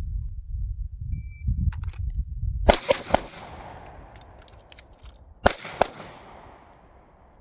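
A short electronic beep about a second in, then three quick gunshots and, about two and a half seconds later, two more, each group trailing off in an echo.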